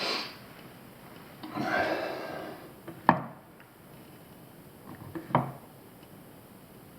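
A short noisy rush like a breath or rubbing, then two sharp clicks about two seconds apart with a few light ticks between them: small handling knocks on hard parts.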